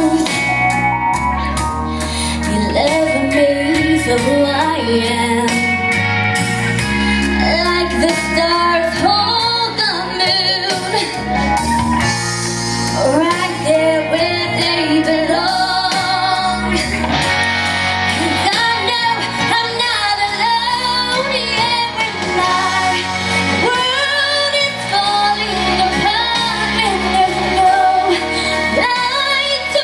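A young female singer singing a slow pop ballad live over a backing track, holding long, wavering notes.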